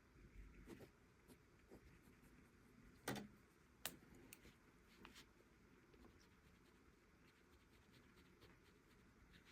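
Faint drawing sounds of a hand tool on paper: light scratchy strokes and small ticks, with two sharper clicks a few seconds in, then only a faint hiss.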